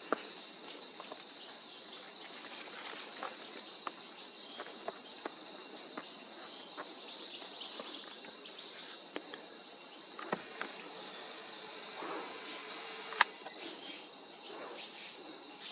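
Insects trilling in one steady, unbroken high-pitched tone, with a few faint clicks over it.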